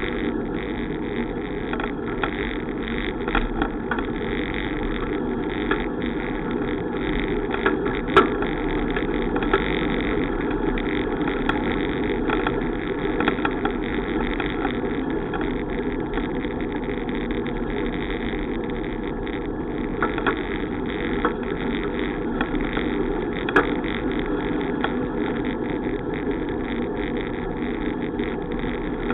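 Steady rushing noise of a bicycle in motion, wind and road noise picked up while riding, with a few sharp knocks, the loudest about eight seconds in.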